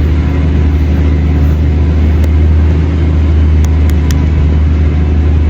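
Steady low rumble and hiss of wind buffeting the microphone, with a few faint clicks in the middle.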